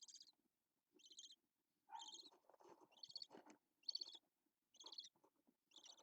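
Budgerigar making short, faint, buzzy chirps, about one a second.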